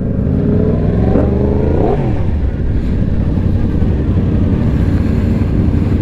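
Sport bike engine running under way, with its pitch rising and then falling once about two seconds in.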